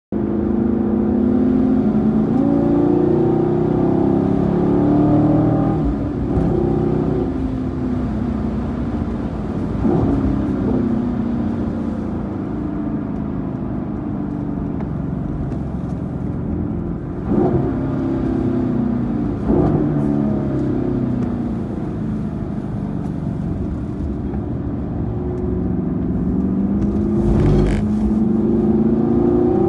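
Camaro SS's 6.2-litre V8 running under way, its pitch climbing and falling back several times as it accelerates and shifts through the gears.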